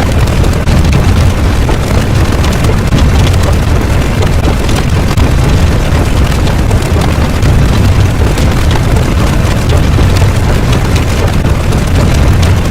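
A loud, continuous rumble with its weight in the low end, like a sustained explosion or eruption sound effect.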